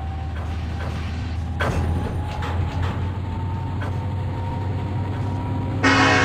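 Diesel locomotive of a freight train running with a steady low rumble and a few metallic clanks. Near the end its air horn starts with a sudden loud blast.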